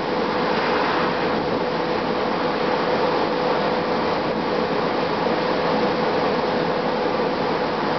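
Inside a 2007 Gillig Advantage low-floor bus under way: steady running noise of its Cummins ISM diesel and Voith D864.5 automatic transmission mixed with road noise, with a steady whine over it.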